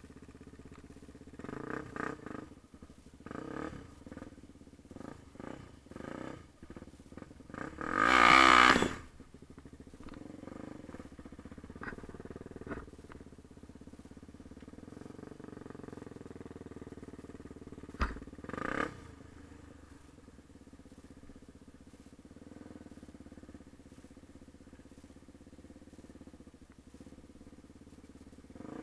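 Yamaha TT-R250 dirt bike's single-cylinder four-stroke engine running, with a series of short throttle surges over the first several seconds, a loud burst of noise about eight seconds in, and a sharp knock around eighteen seconds, then steady low running.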